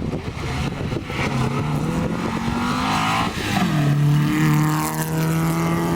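Rally car engine under hard acceleration on a special stage. The engine note climbs, drops sharply about three and a half seconds in, then holds steady.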